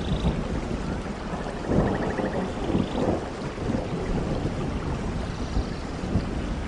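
Steady rainfall under a low, rolling rumble of thunder, which swells about two seconds in.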